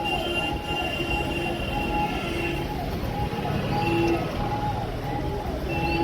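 Electronic siren wailing in a fast repeating rise-and-fall, about once every 0.7 seconds, over a steady rumble of vehicle noise.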